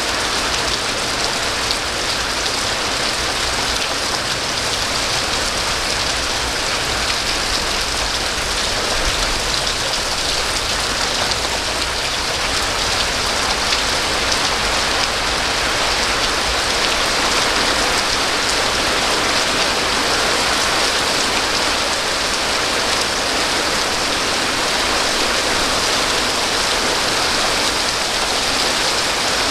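Steady rain falling and pattering on surfaces, an even unbroken hiss with no breaks or swells.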